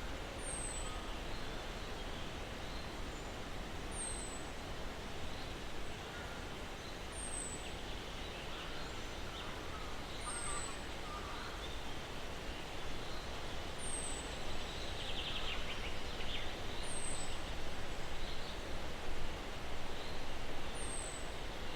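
Steady breeze hissing through pine branches, with a bird repeating a short high whistle that falls in pitch about every three seconds and faint chirps from other birds.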